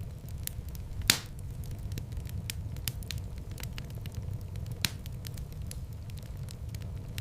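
Fire burning in a fireplace: a steady low rumble of flames with frequent small crackles and two sharper pops, about a second in and near the five-second mark.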